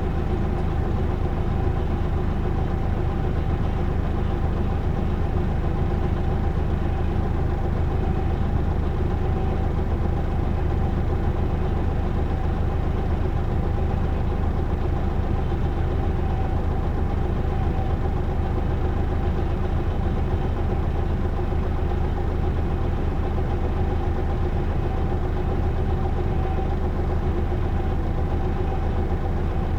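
Isuzu Erga city bus's six-cylinder diesel engine idling steadily, heard from inside the cabin while the bus stands at a stop.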